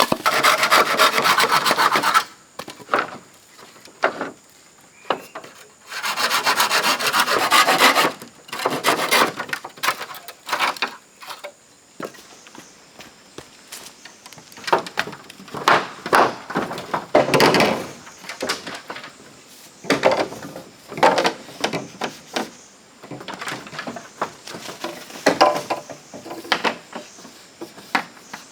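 A hand tool working wood with rapid scraping strokes, in two sustained runs of a couple of seconds each, then shorter scrapes and knocks.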